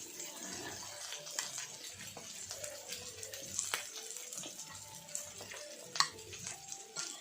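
Food sizzling steadily on an electric grill pan, with a few sharp clicks of utensils against the pan; the loudest click comes about six seconds in.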